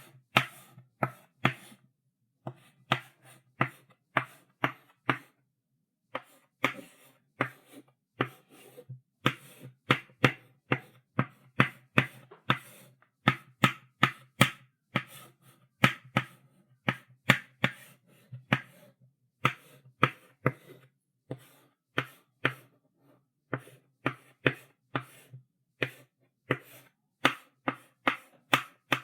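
Chalk writing on a blackboard: quick, sharp taps and short strokes of the chalk against the board, several a second in irregular runs with brief pauses between words.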